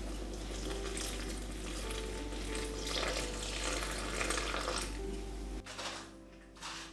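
Food sizzling in a frying pan, a steady hiss that cuts off suddenly about five and a half seconds in, with soft background music underneath.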